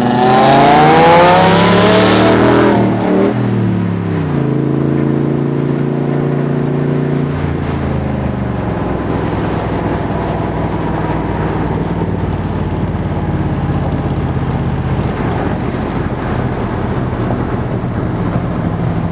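Factory Five Cobra replica's Ford small-block V8, heard from its open cockpit, revving hard with a steeply rising pitch for about two seconds. It then eases off with falling pitch and runs steadily at cruise, with wind rushing past throughout.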